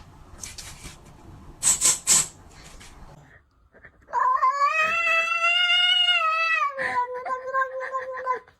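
A domestic cat yowling in one long drawn-out call of about four seconds that rises slightly, holds and sinks away, preceded by a few short breathy puffs.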